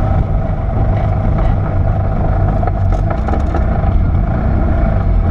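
Porsche 930 Turbo's air-cooled turbocharged flat-six running steadily at low speed, heard from inside the cabin.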